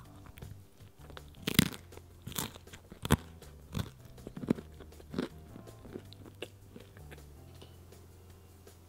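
Crunchy chewing of a bite of pizza crust: a run of about eight crisp crunches, roughly one every 0.7 seconds, the first ones loudest and then fading.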